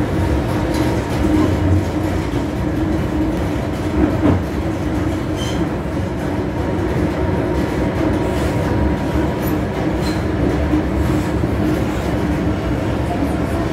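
MTR M-Train electric multiple unit running steadily on the Island Line, heard from the cab: a continuous rumble of wheels on rail with a steady low hum and a few scattered clicks from the track.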